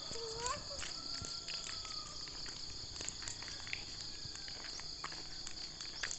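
Crickets chirping in a steady high-pitched chorus, with a brief rising and falling call near the start.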